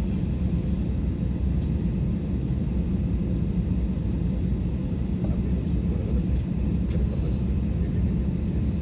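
Steady low rumble heard inside the cabin of an Airbus A320neo airliner, even in level with no change in pitch.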